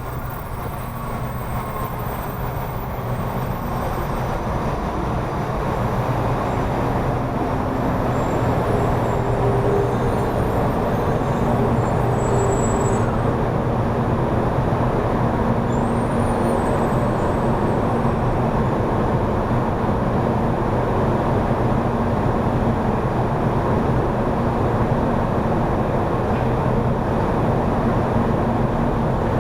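Taiwan High Speed Rail bullet train running, a steady rumble with a low hum that builds over the first several seconds and then holds steady.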